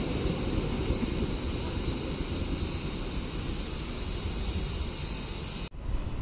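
Passing train's rolling rumble on the rails slowly dying away, cut off abruptly near the end.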